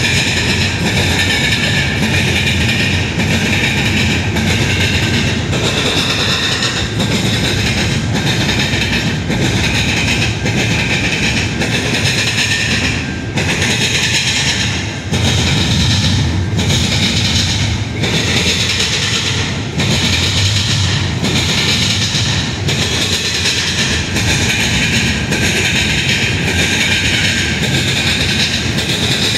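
Double-stacked container well cars of a CN intermodal freight train rolling past, a steady loud rumble with the wheels clacking over the rail joints at a regular beat.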